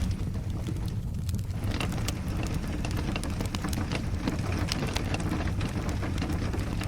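A wood fire crackling in a fireplace: many sharp, irregular pops and snaps over a steady low rumble, mixed with steady rain.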